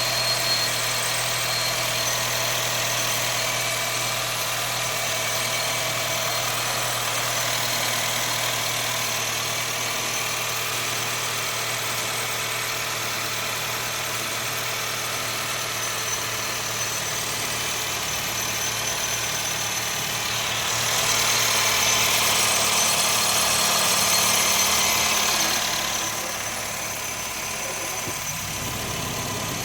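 Honda City 1.5 i-VTEC engine idling cold, with a steady high-pitched whistle from the engine bay that comes only while the engine is cold; the owner suspects the alternator. For about five seconds near the end a louder rushing noise rises over it, then drops away.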